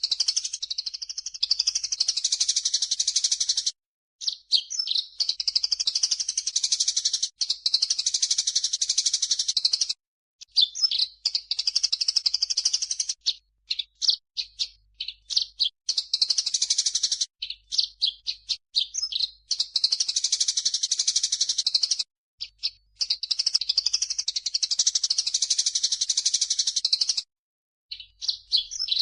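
Masteran recording of grey-cheeked bulbul (cucak jenggot) song combined with Eurasian tree sparrow (burung gereja) chirping: dense, high chirps and chatter in long bursts of a few seconds each, broken by short pauses.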